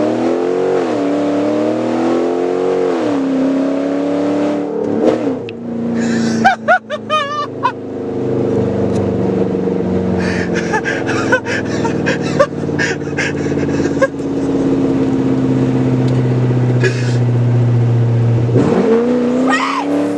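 Ram 1500's 5.7 Hemi V8 running on new long-tube headers with the catalytic converters and the rest of the exhaust off, heard from inside the cab. It accelerates with the exhaust pitch rising through two gears, settles into a steady loud drone while cruising, then climbs again near the end. A brief wavering voice cuts in about six seconds in.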